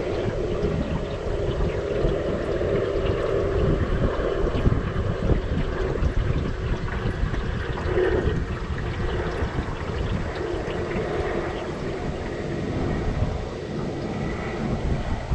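Wind buffeting the microphone over water noise as a flat-bottom john boat moves under its battery-powered motor, with a steady low hum from the motor underneath.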